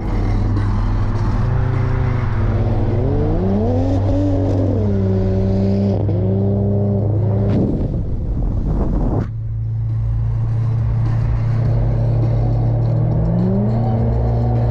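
Car engine accelerating hard on a highway, its note climbing and then dropping back at gear changes, twice in the first half, then climbing again near the end, over a steady low drone of engine and road noise. About nine seconds in, a rush of noise cuts off suddenly.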